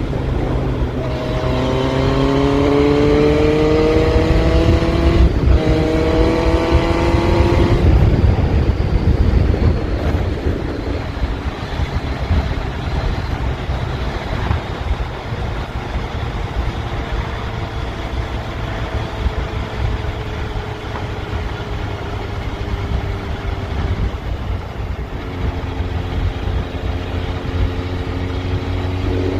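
Yamaha FZS1000 inline-four motorcycle engine under way: the revs climb twice, with a brief gear change about five seconds in, then settle to a quieter, slowly falling note and hold steady near the end, under a steady low rush of noise.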